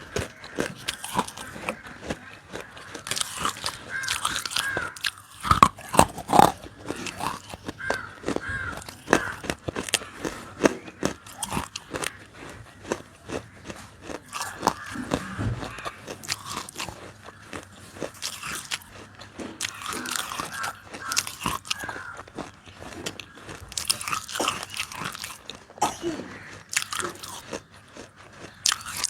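Close-miked crunching bites and chewing of hard roasted nakumatt pieces: a steady run of crisp cracks and crackles, with louder bites now and then.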